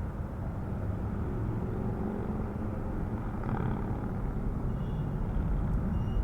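Boeing 767-300 jet engines heard as a steady low rumble as the airliner climbs away after takeoff, slowly growing louder.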